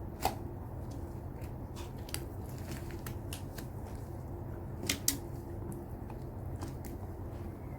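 Slime being played with by hand: scattered crisp clicks and small sticky pops, with a sharper pop just after the start and two more close together about five seconds in.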